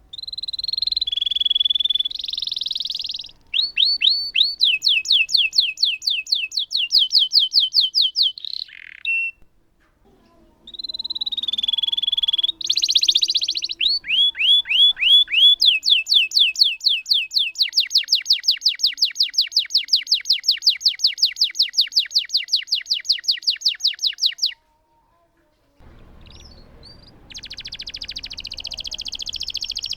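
Domestic canary singing long rolling trills, rapid strings of repeated notes, in song bursts broken by short pauses. The longest is a steady fast roll of about seven seconds. Another burst starts near the end.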